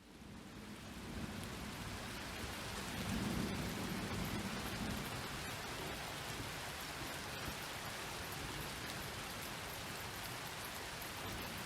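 Steady rain hiss, fading in from a brief silence at the start, with a low rumble of distant thunder swelling a few seconds in.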